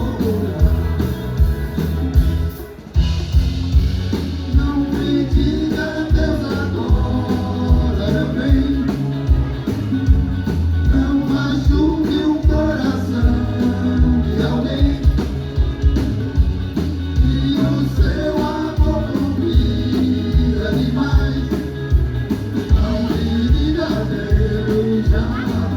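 Live band playing a song with a lead singer over a steady drum-kit beat, with guitar and percussion; the music drops briefly about two and a half seconds in.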